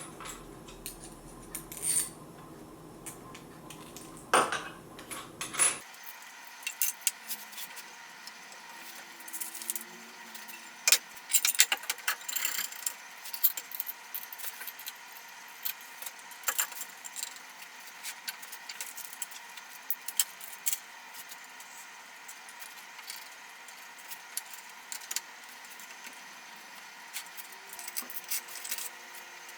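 Small metal hardware and tools clicking and clinking in scattered, irregular taps while a crosscut sled is being assembled.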